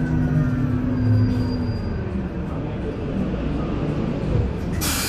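Isuzu Erga EV electric bus running, heard from inside the cabin: the electric traction motor's whine falls in pitch as the bus slows, over road noise. A sudden loud hiss of air starts near the end.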